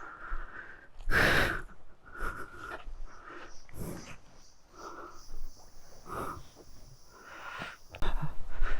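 A man breathing hard, with heavy breaths about once a second, while walking on a trail. A faint steady high tone runs under it from a few seconds in.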